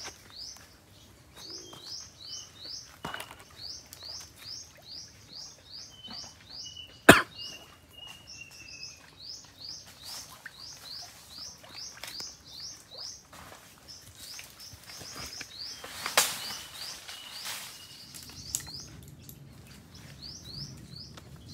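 A small bird calling long runs of short, high, rising chirps, about three a second. One sharp crack about seven seconds in is the loudest sound, and a brief rush of noise comes about sixteen seconds in.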